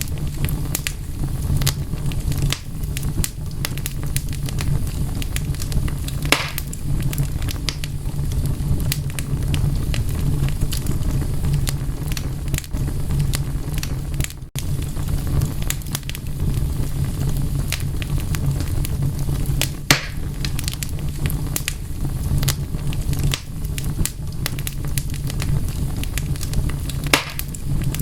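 Wood fire crackling and popping over a steady low rumble of burning. Scattered sharp pops come throughout, with a few louder snaps, and the sound drops out for a split second about halfway through.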